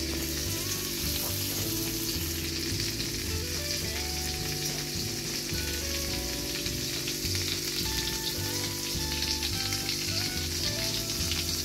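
Liver and pepper skewers sizzling steadily on aluminium foil on a hot tawa griddle.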